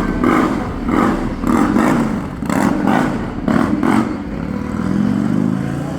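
A motor vehicle's engine revving in a string of short surges for about four seconds, then running more steadily.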